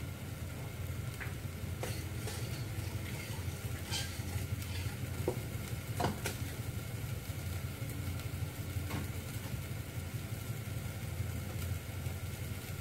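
Food sizzling in a stainless steel pot on a gas stove, over a steady low hum, with a few scattered sharp clinks and taps of a utensil.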